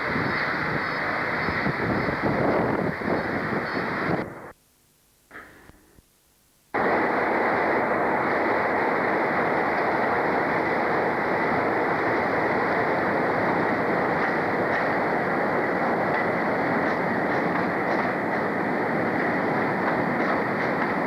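Railway train running: a steady rush of train noise, which drops out abruptly to near silence about four seconds in and comes back just as suddenly about two seconds later.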